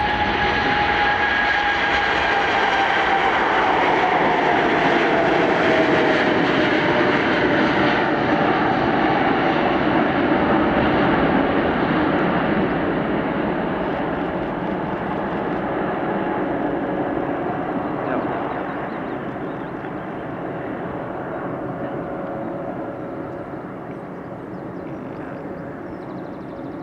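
Boeing 747-8 freighter on its takeoff run and climb-out, its four jet engines at takeoff power. The engine whine drops in pitch as it passes during the first several seconds, then the roar slowly fades as it climbs away.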